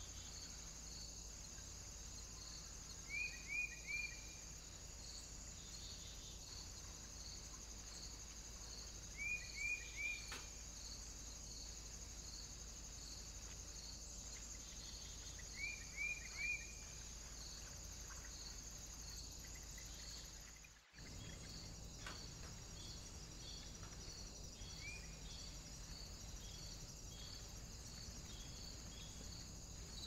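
Small songbird calling in three bursts of three or four short, quick falling chirps, about six seconds apart, then one lone chirp later. Underneath is a faint steady insect-like trill pulsing about twice a second, and the sound drops out briefly about two-thirds of the way through.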